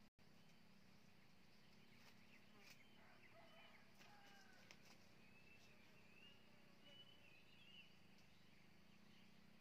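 Near silence with faint birdsong: wild birds chirping and whistling in short gliding phrases for a few seconds, over a low steady hum.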